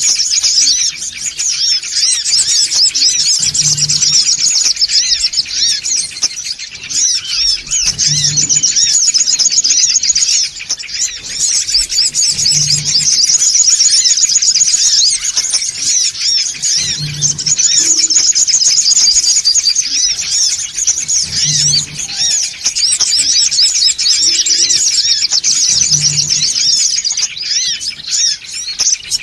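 Male songon sunbird's excited chattering, a dense, unbroken stream of rapid high twitters used as a bird-trapping lure call. A faint low thud repeats about every four and a half seconds underneath.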